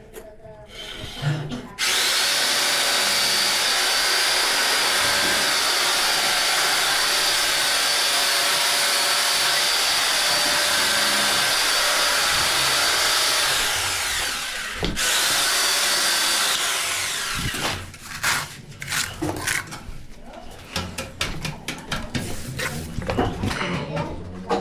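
A handheld power tool runs steadily at full speed for about twelve seconds, eases off, stops for a moment, and runs again for a couple of seconds. It then gives way to a series of knocks and clatter.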